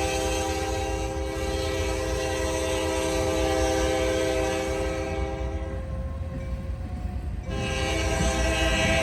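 Freight train locomotive's air horn blowing a long chord over the low rumble of the train, breaking off about two-thirds of the way through and sounding again near the end.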